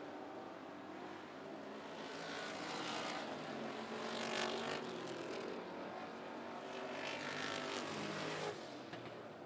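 Classic-car division stock cars racing on a dirt oval track, their engines running hard. The cars pass twice, swelling and sweeping in pitch from about two seconds in and again from about seven seconds in; the second pass drops off sharply near the end.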